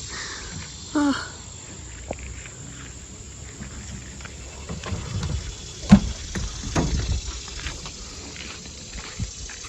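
Steady chorus of insects, with a few kayak paddle strokes splashing and knocking in the middle, the loudest about six seconds in.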